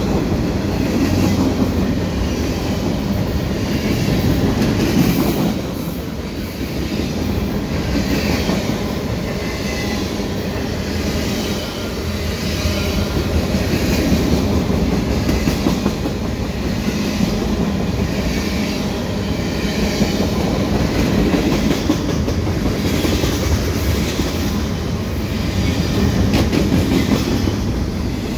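Freight cars of a passing freight train rolling by close up: the steady rumble of steel wheels on the rails, with wheel clacks and slow swells in loudness as the cars go by.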